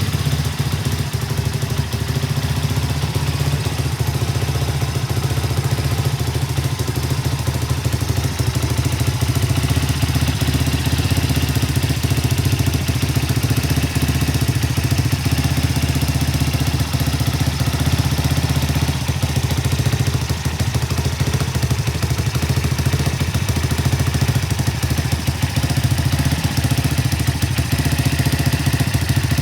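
2004 Honda FTR223's air-cooled single-cylinder engine idling steadily through an aftermarket Supertrapp muffler.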